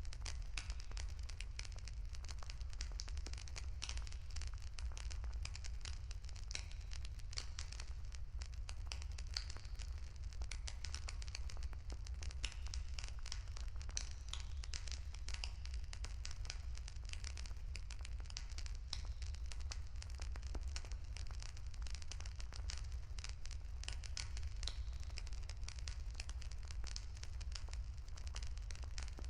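Wood bonfire crackling steadily with many small irregular pops, over a constant low rumble.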